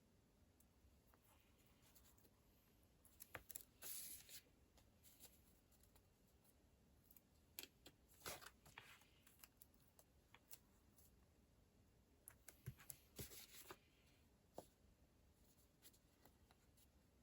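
Faint paper and stationery handling on a desk: light taps and clicks with short papery rustles, in clusters about three, eight and thirteen seconds in.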